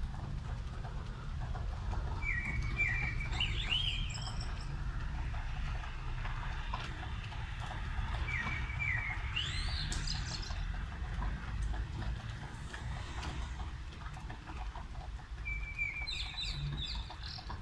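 A bird calling three times, each call a short flat note followed by a quick rising glide, with several seconds between calls. Underneath is a steady low rumble and the even hiss of rain.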